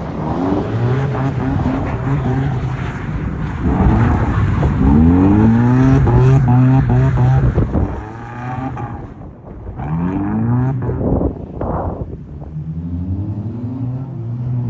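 Subaru Impreza's flat-four engine revving hard and easing off over and over as the car is driven sideways through snow. The pitch climbs sharply about four seconds in and again around ten seconds, falling back between pulls, with a dip in loudness around nine seconds.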